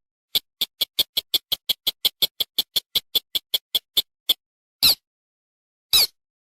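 Recorded rail lure call: a rapid, even series of about twenty short, sharp ticking notes, about five a second, then two single louder, harsher calls near the end.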